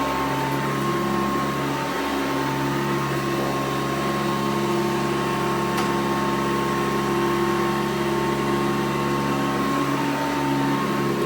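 A 1991 Hoover Encore upright vacuum cleaner running steadily over carpet, its motor giving a steady pitched whine.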